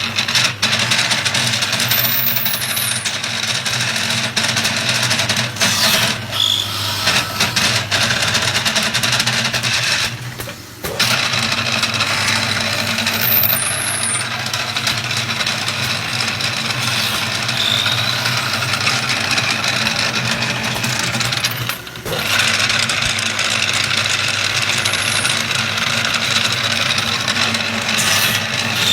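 Automatic wood lathe running steadily as it turns wooden balls or door knobs: a motor hum with the hiss of cutting, dipping briefly a few times.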